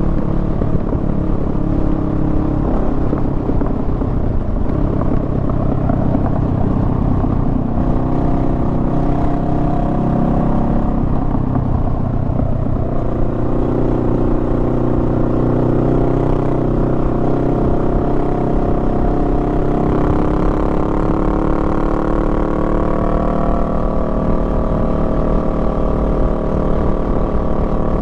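Honda Rebel 500's 471 cc parallel-twin engine running under way, its pitch shifting as the throttle and gears change and climbing steadily in the last third, over wind rush.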